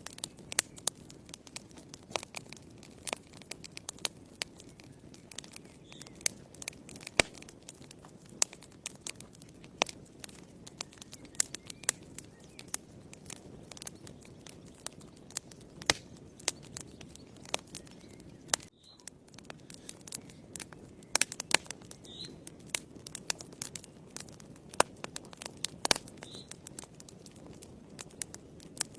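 Fire in a fireplace crackling: irregular sharp pops and snaps over a low, steady rush of flame.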